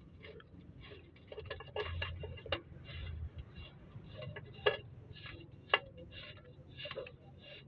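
Irregular metallic clicking, several clicks a second with a few sharper knocks, from hand tools working on a car gearbox as its bell housing is bolted on.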